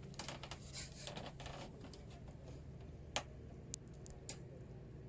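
A few sharp clicks and brief rustling handling noises, the loudest click about three seconds in.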